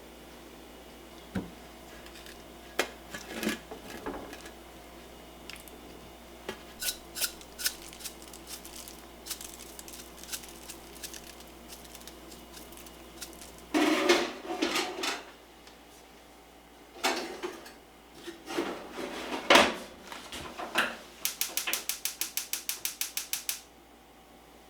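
Kitchen work: dishes, pots and utensils knocking and clattering in scattered bursts. Near the end comes a quick, even run of about a dozen clicks.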